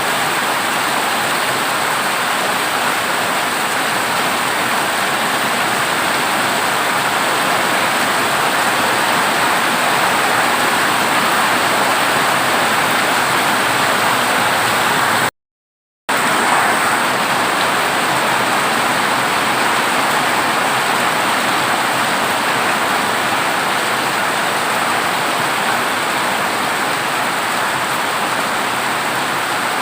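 Heavy rain falling on a corrugated tin (zinc) roof: a dense, steady hiss. It cuts to silence for about half a second midway, then resumes.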